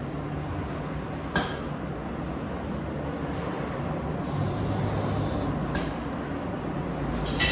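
Coin-operated washing machine being worked: a steady low hum with two sharp clicks about four seconds apart, and a loud rush of noise starting near the end.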